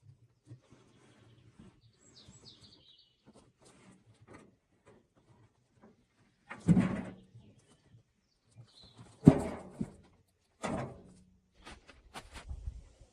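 Three heavy, dull thuds a couple of seconds apart, each dying away quickly, with smaller knocks around them; a bird chirps faintly, once with a short falling call.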